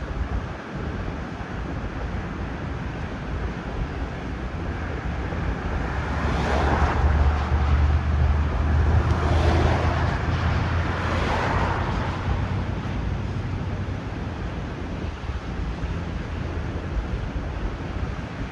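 Strong wind rumbling on the microphone over the steady wash of large breaking lake waves; three louder surges of crashing water come about halfway through.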